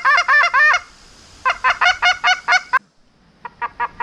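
Goose call blown in quick bursts of honks and clucks, working a goose that is circling in to the decoys. Two loud runs of rapid notes, then a short pause and a few fainter notes near the end.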